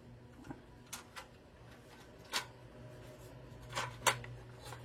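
Scattered clicks and knocks from a pressed-steel Tonka ramp hoist toy truck being handled and worked, about seven in all, irregularly spaced, the loudest about two and four seconds in, over a steady low hum.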